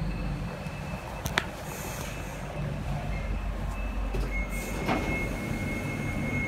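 Docklands Light Railway train heard from inside the carriage as it slows along the platform to a stop: a steady low rumble, a sharp click a little over a second in, and a steady high whine that starts about two-thirds of the way through.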